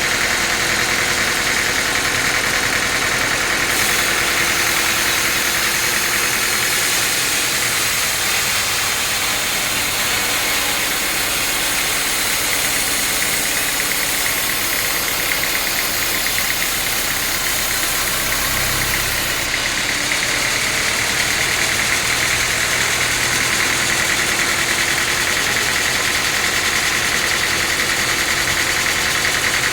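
Sawmill machinery running steadily while teak is sawn: a dense, continuous engine-and-saw noise. The high hiss gets brighter about four seconds in and drops back about twenty seconds in.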